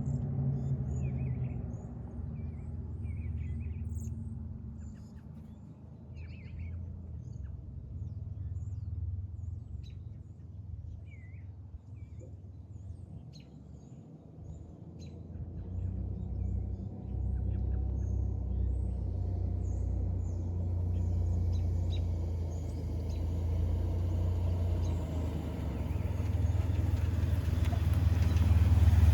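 Old Ford Ranger pickup's engine running with a low rumble that dips about halfway and then grows steadily louder toward the end, while birds chirp now and then, mostly in the first half.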